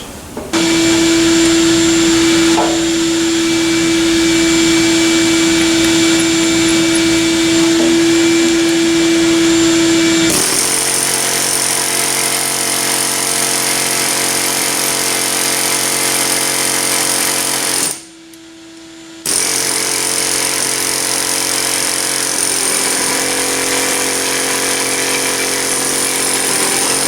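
A handheld power tool running steadily with a strong single note; about ten seconds in its sound changes to several notes and more hiss, it stops for about a second, then runs again.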